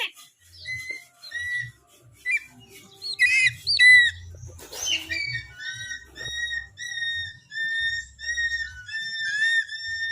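A bird whistling a series of short clear notes, mostly level in pitch with some quick upward or downward slides, with a few louder sharper calls about three to four seconds in.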